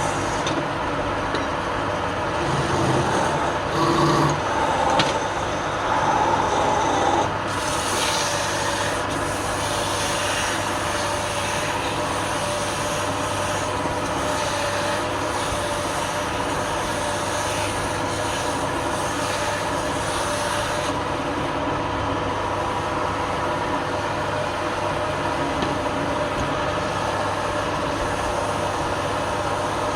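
Wood lathe motor running steadily while a tool or abrasive rubs against the spinning wood, more uneven and a little louder in the first several seconds.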